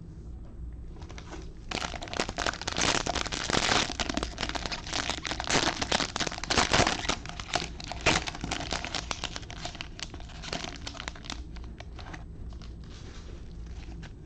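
Plastic trading-card pack wrapper crinkling as it is torn open and handled. It starts suddenly about two seconds in, is loudest through the middle and trails off near the end.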